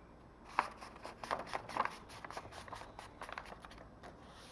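A sheet of printer paper being folded down the middle and creased, with a run of short crinkling and rubbing strokes.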